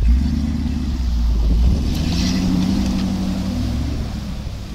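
Jeep Grand Cherokee's engine running loud under load as it drives into a river ford. Water rushes and splashes around the vehicle, most strongly about two seconds in.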